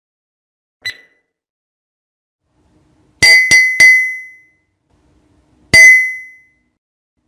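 Sound-effect bell dings: a faint short ding about a second in, then three quick loud dings, then a single ding about two seconds later, each ringing briefly and dying away.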